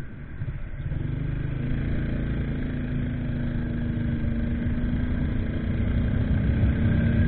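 Motorcycle engine running while riding, recorded by a bike-mounted action camera. Its steady engine note comes in about a second in and grows slowly louder as the bike gathers speed.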